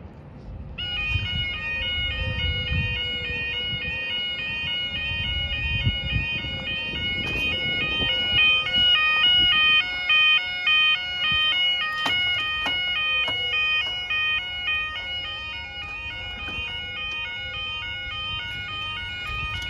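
Level crossing warning alarm starts up about a second in and keeps sounding: a two-tone, alternating electronic yodel that warns a train is approaching and the barriers are about to lower.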